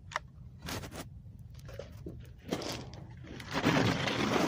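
A few faint clicks, then a rustling, scraping noise that builds up about three and a half seconds in.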